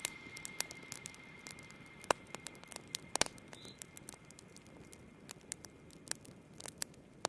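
Wood fire crackling: irregular sharp pops and snaps over a faint hiss.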